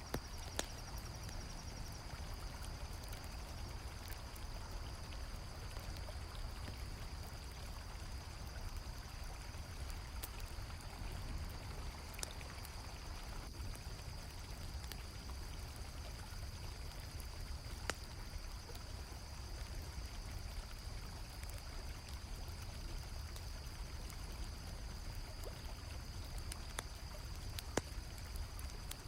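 Flowing river water, with a steady high trill of crickets and a few sharp pops from a crackling campfire.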